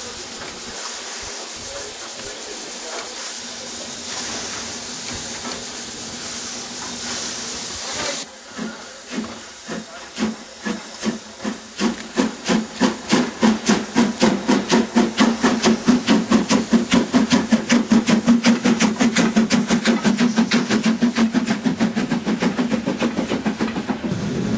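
Narrow-gauge steam locomotive: a steady hiss of steam, then about eight seconds in the exhaust starts chuffing as the locomotive pulls away, slow beats about one and a half a second that quicken to about three a second and grow louder as the train gathers speed.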